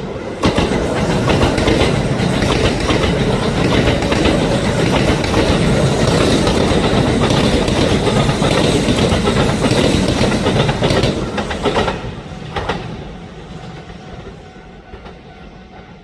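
Train running on the rails, its wheels and cars loud for about eleven seconds and then fading away.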